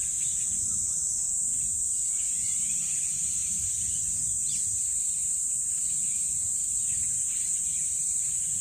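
A steady, high-pitched insect chorus drones without a break, with faint bird calls scattered beneath it, one a short falling call about four and a half seconds in.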